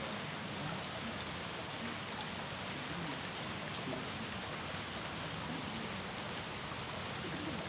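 Steady rain falling on a pond: a constant hiss of drops on the water, with a few sharper drip clicks, the two loudest about four and five seconds in.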